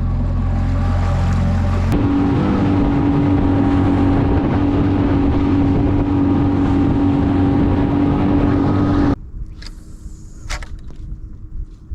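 Small boat's outboard motor running under way, picking up about two seconds in, with the rush of wind and water. About nine seconds in it gives way abruptly to much quieter wind and a few knocks.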